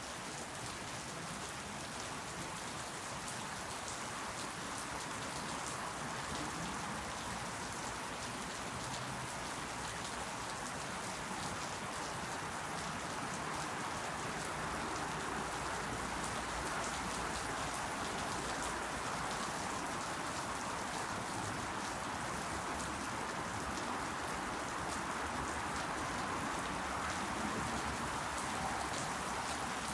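Steady rain falling, a dense even patter of drops with fine individual drip ticks.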